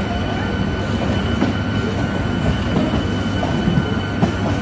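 Red LHB passenger coaches of a departing express train rolling past on the rails: a steady, loud rumble of wheels on track, with a thin, steady high squeal over it and a couple of short clicks as the wheels cross rail joints.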